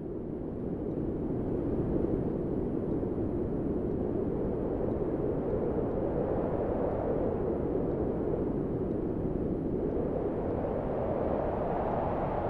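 Steady low rumbling noise with no distinct tone or rhythm, growing a little brighter near the end.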